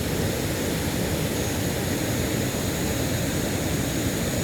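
Waterfall rushing: a steady, deep roar of falling water with no pauses.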